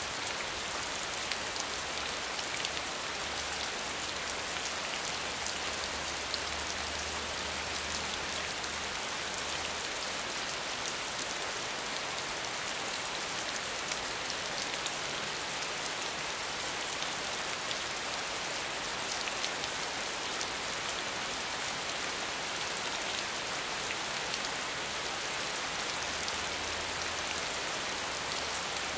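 Steady medium rainfall: a dense, even hiss of rain with many fine ticks of individual drops.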